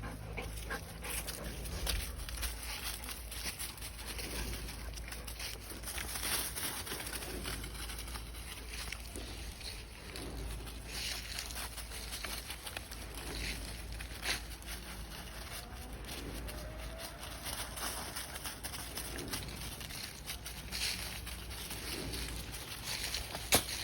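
Outdoor ambience: a steady low rumble with scattered rustles and light clicks, and one sharp click near the end.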